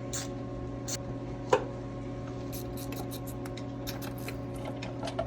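Parts and tools being handled during engine work: light clicks and rustling, with one sharp knock about a second and a half in and a run of small clicks near the end, over a steady electrical hum.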